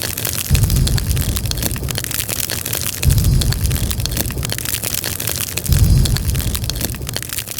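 Rapid, continuous crackling and popping of material burning close to the microphone. A low rumble swells up three times under the crackle.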